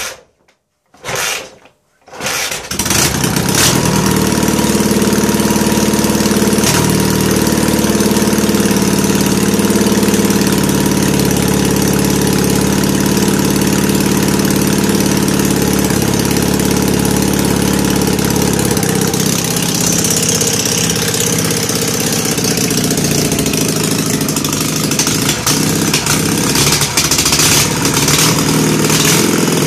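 Freshly rebuilt M72 side-valve flat-twin motorcycle engine, on its first test start with oversize Mahle car pistons, kicked over: two short bursts, then it catches about two seconds in and runs steadily. From about twenty seconds in the running grows uneven, with short blips.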